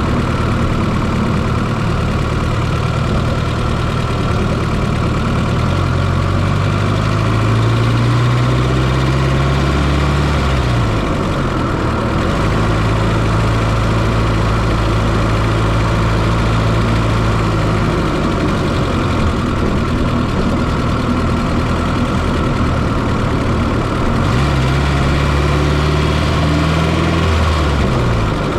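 Fiat Coupé 2.0 16V turbo four-cylinder engine running, heard from inside the engine bay. Its note climbs slowly and then drops off sharply twice, about six seconds in and again near the end.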